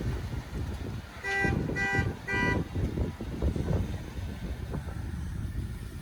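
Three quick blasts of a vehicle horn, each about a third of a second long, over a low engine rumble.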